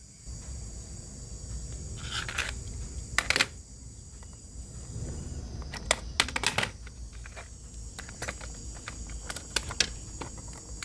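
Scattered sharp clicks and light knocks from handling small hard objects, over a low hum and a faint steady high-pitched whine.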